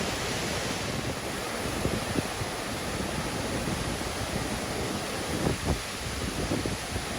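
Steady rushing of a waterfall, with a few low buffets of wind on the microphone about two seconds in and again past the middle.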